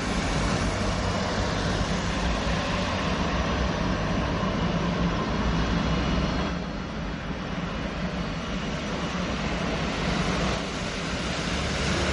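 Steady jet engine noise from a Boeing 777-300ER's General Electric GE90 engines at takeoff thrust, a dense rushing sound with a low hum underneath that eases briefly about six and a half seconds in.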